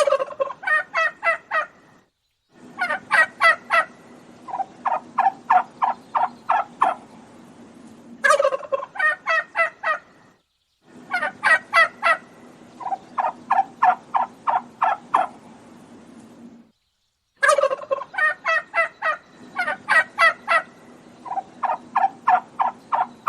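Domestic turkeys gobbling: repeated bouts of fast, rattling gobbles, each a few seconds long with short pauses between, over a low steady background hum.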